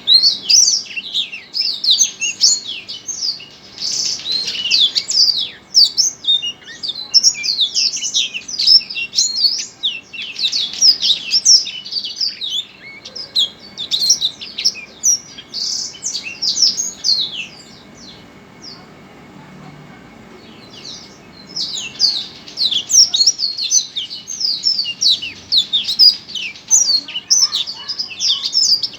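A small songbird singing a fast, continuous chattering song of rapid, mostly downward-sweeping high chirps. The song stops for a few seconds a little past halfway, then starts again.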